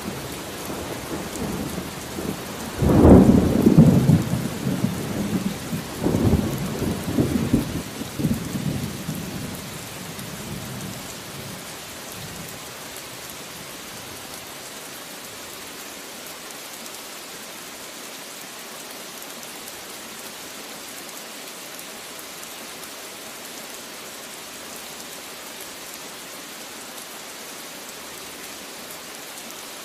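Steady rain falling, with a thunderclap about three seconds in that rumbles on in a second surge and dies away by about twelve seconds, leaving only the rain.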